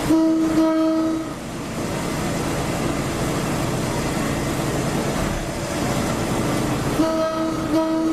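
Train horn sounding a single steady note: two short blasts right at the start and two more near the end, over the steady rumble of the train running on the track.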